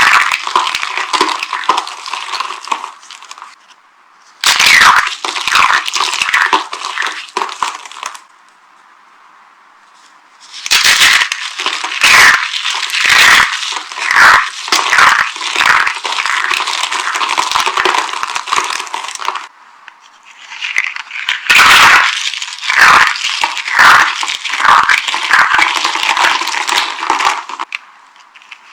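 Dry soap being crushed, crunching and crackling in four long stretches of many sharp cracks, with brief pauses between them.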